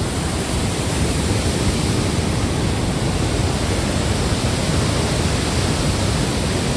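Steady, loud rushing roar of a waterfall.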